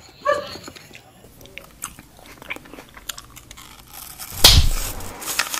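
Children chewing and biting into fried snacks such as french fries and chicken nuggets: scattered small mouth and food clicks, with one loud thump about four and a half seconds in.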